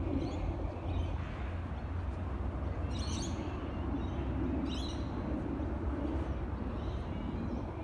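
Two short, high bird calls, one about three seconds in and another just before five seconds, over a steady low outdoor rumble.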